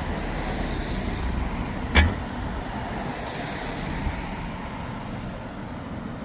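Road traffic on a city street, a steady rushing noise of passing cars, with one sharp knock about two seconds in.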